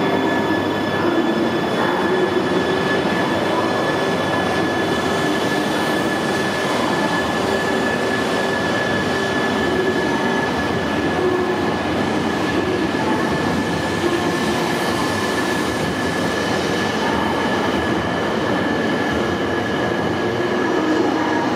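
E3-series shinkansen set (the Toreiyu Tsubasa joyful train) pulling slowly out of the platform and running past. The noise is steady and even, with a thin high steady tone held throughout.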